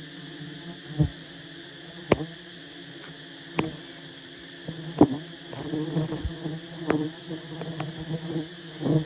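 A swarm of honey bees buzzing around a wild nest: a steady droning hum, with sharp clicks roughly every second.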